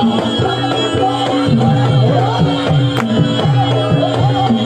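Music for a Javanese trance dance: hand drums whose notes bend down in pitch, over steady held tones.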